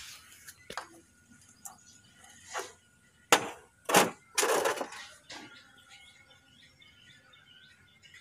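Irregular metal knocks and clanks from hand tools and parts during JCB front hub and bearing work: a few light taps, two loud knocks about three and four seconds in, then a short scraping rattle.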